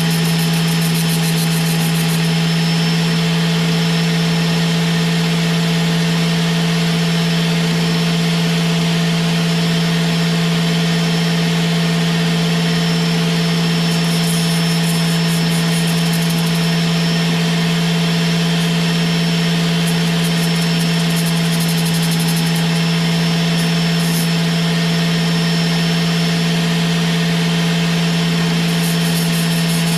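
Loud power-tool motor running steadily, with a strong hum: a drill spinning a fuel injector against a flap disc to grind off its pressed-on metal cap. Short stretches of higher grinding hiss come in about halfway through and again near the end.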